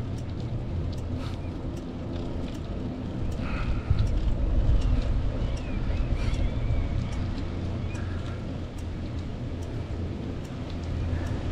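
Wind rushing over the microphone of a moving bicycle: a steady low rumble that swells about four seconds in, with scattered faint clicks and rattles.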